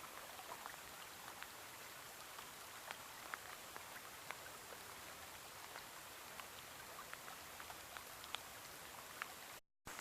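Faint scattered water drops falling, heard as irregular short ticks over a soft steady hiss. The sound cuts out completely for a moment near the end.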